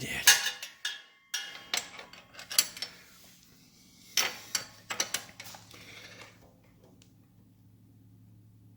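Wrench and metal hand tools clicking and clinking against nuts and the exhaust fittings, in three short clusters of sharp knocks. A faint steady low hum runs underneath.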